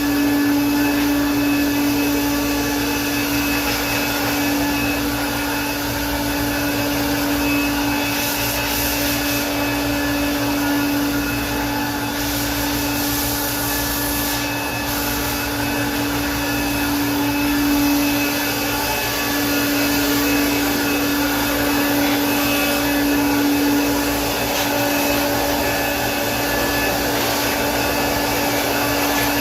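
Electric air blower running steadily, blowing dust out of a fridge or freezer condenser: a constant low motor hum under a steady hiss of air.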